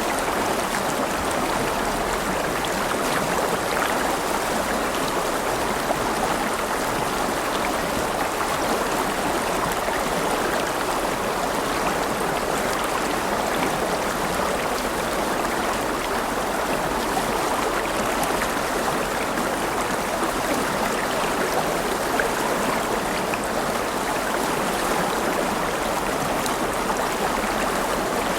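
River water flowing over rocks: a steady rushing and babbling with fine, continual splashing and no change in level.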